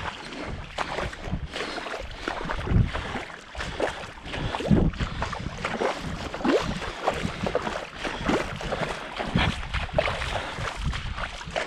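Water sloshing and splashing with irregular low knocks and wind on the microphone, like a small boat moving through marsh water.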